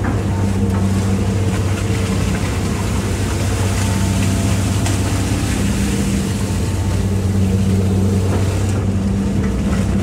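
Hitachi EX200-5 excavator's diesel engine running steadily under digging work, an even hum with no breaks.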